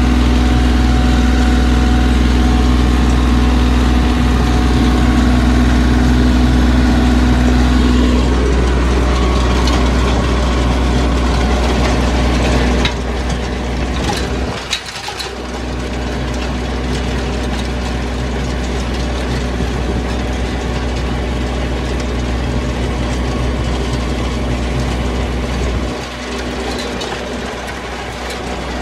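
Bobcat CT2035 compact tractor running steadily under load while pulling a rototiller through plowed ground. The sound is loud, and a steady tone in it drops away about eight seconds in. It turns quieter about thirteen seconds in, dips briefly about fifteen seconds in, and dips again near the end.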